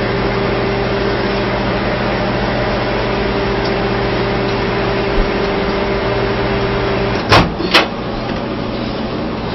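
Microwave oven running with a steady hum, stopping about seven seconds in, followed by two loud clicks of its door being opened.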